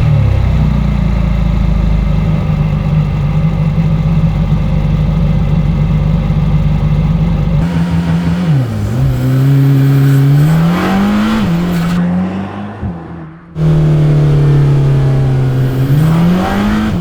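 Mercedes-AMG GT Black Series' twin-turbo flat-plane-crank V8 running at a steady fast idle. About eight seconds in, its pitch drops, then the revs rise and fall in several swells.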